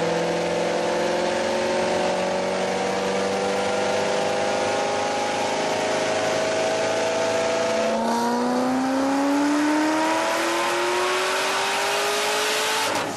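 C6 Corvette's V8 engine pulling under full load on a chassis dyno, rising steadily in pitch. About eight seconds in the pitch drops suddenly and climbs again, then it falls away near the end.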